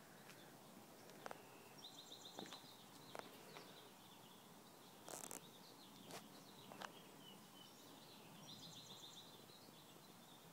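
Faint outdoor quiet with a small songbird singing a quick high trill about two seconds in and again near the end, and a few soft scattered clicks.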